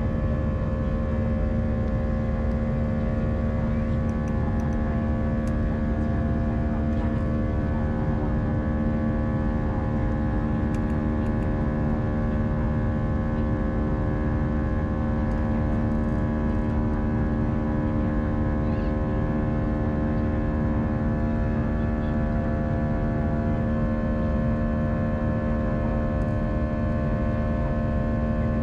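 Cabin noise of an Airbus A319-131 in flight: a steady drone of its IAE V2500 engines and the airflow, with an unchanging hum of several steady tones.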